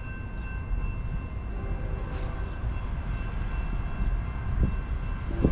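BNSF manifest freight train rolling by: a steady low rumble that slowly grows louder, with faint steady high tones above it.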